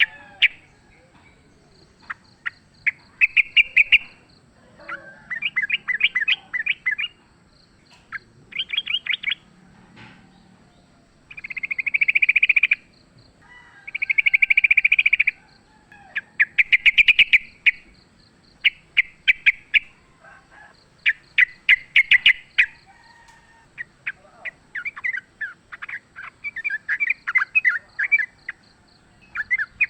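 Yellow-vented bulbuls (trucukan) singing in rapid, chattering ropel phrases of one to two seconds each, with short gaps between, running into a longer unbroken stretch near the end: the fast 'fighting' song used to provoke kept bulbuls into answering.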